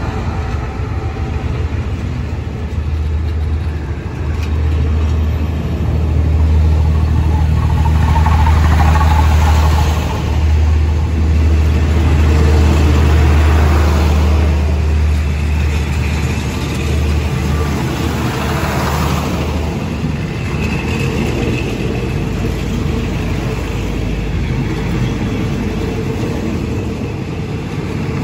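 Diesel-hauled passenger train pulling out past the platform: a low diesel engine drone is loudest for about the first half, fading after about 17 seconds, while the carriages roll by with swelling wheel-and-rail rushes and a steady rumble.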